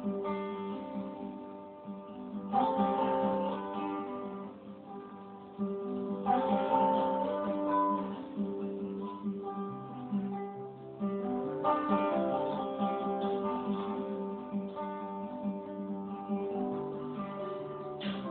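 Acoustic guitar played between sung verses, with a strong strum or accent every few seconds over ringing picked notes.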